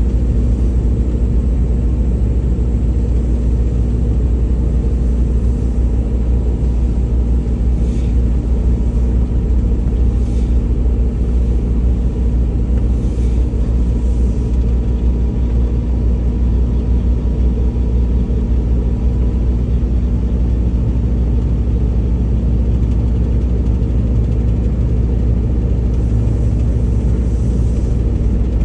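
Semi truck driving at steady speed: a constant heavy low rumble of engine and road noise, with a steady hum.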